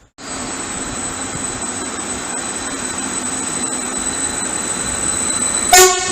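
Train running through the station with a steady rumble and a thin, steady high-pitched squeal from the wheels. A brief loud pitched blast comes near the end.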